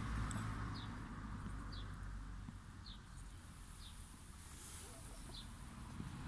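A small bird gives a short, high chirp over and over, about once a second, over a faint low rumble.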